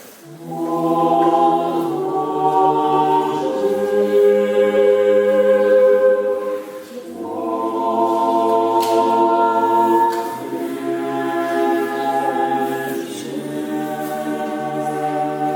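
Orthodox church choir singing unaccompanied liturgical chant in several parts, with long held chords over a low bass line. The voices pause briefly for a breath about seven seconds in.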